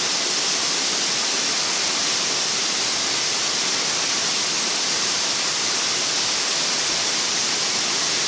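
Waterfall pouring: a steady, unchanging rush of falling water, hiss-heavy in the high range.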